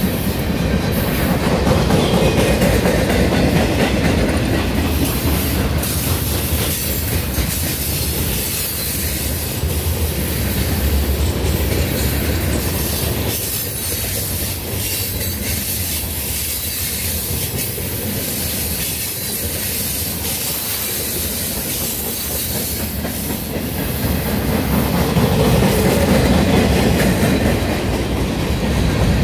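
Norfolk Southern mixed freight train's cars (tank cars, boxcars and hoppers) rolling past close by: a steady rumble and clatter of steel wheels on the rails. It eases somewhat in the middle and gets louder again near the end.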